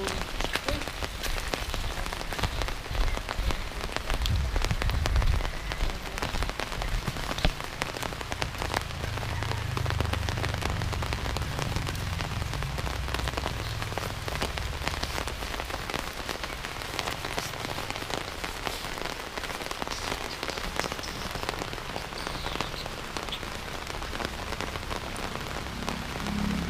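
Steady rain falling, with many individual drops ticking on surfaces close by. A low rumble comes and goes underneath.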